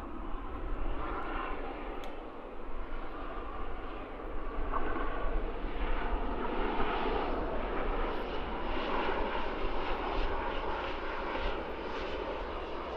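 Airliner engines running as an aircraft moves on or over the runway: a steady rushing noise that grows louder about four seconds in and then holds.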